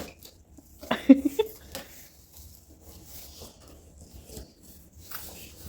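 Faint scratching and rustling of packaging as a box is opened, with a short vocal sound about a second in.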